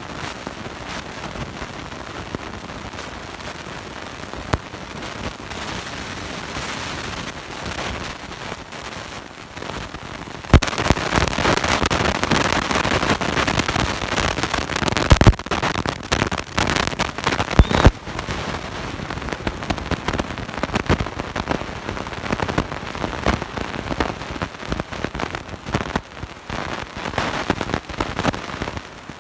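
Harsh, crackling noise with no speech, louder from about ten to eighteen seconds in, with a few sharp clicks: a bad recording.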